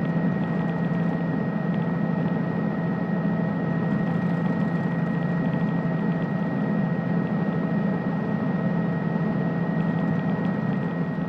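Steady drone of a helicopter in flight: a constant low hum with a thin, high whine held steady above it.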